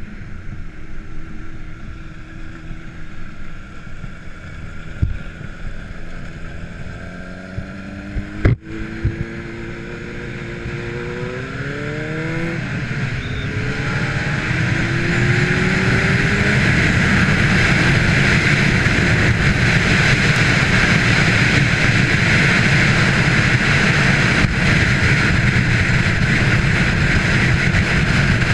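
Kawasaki Ninja 300's parallel-twin engine pulling hard through the gears. Its pitch climbs, breaks at a gear change about eight seconds in and again near twelve, then climbs once more. After that it holds at speed under a loud, steady wind rush on the microphone.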